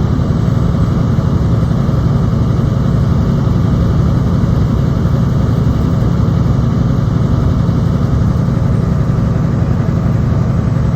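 Semi truck's diesel engine running, a loud, steady low drone with no change in pitch.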